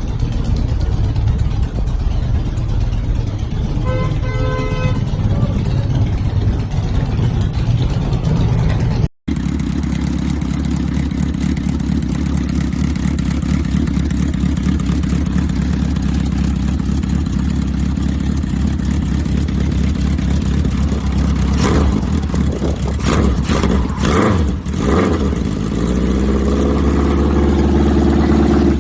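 Motorcycle engines with loud aftermarket exhausts: one running steadily, then after a cut another idling, with a few sharp blips of the throttle and a rev that rises near the end.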